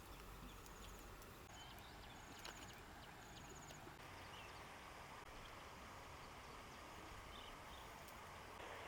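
Faint outdoor ambience, near silence, with several short high-pitched trilled chirps in the first half and a few faint high notes later.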